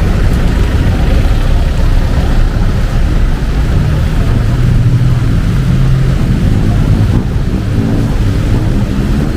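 Steady low rumble of city street traffic, with one vehicle's engine hum standing out for a couple of seconds about four seconds in.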